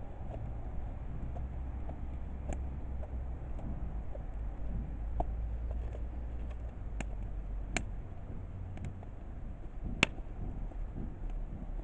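Wood fire burning in a kamado, crackling: a steady low rumble with about half a dozen sharp pops, the loudest about ten seconds in.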